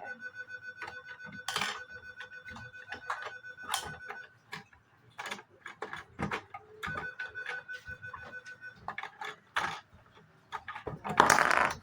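Plastic Lego pieces and minifigures clicking and knocking as they are handled, with a faint steady tone in the background and a louder rushing noise near the end.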